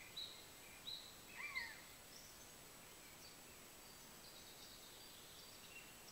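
Faint chirps of small woodland birds over a quiet hiss: a few short calls in the first two seconds, one sliding down in pitch, then only scattered faint chirps.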